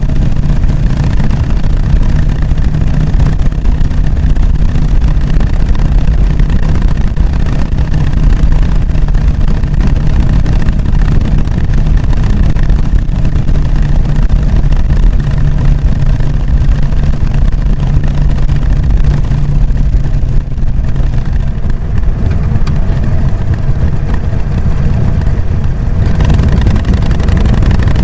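Harley-Davidson Sportster XL883N Iron's air-cooled V-twin running through its stock exhaust with a steady, low, lumpy beat. For several seconds past the middle the hiss above the engine drops away, then returns.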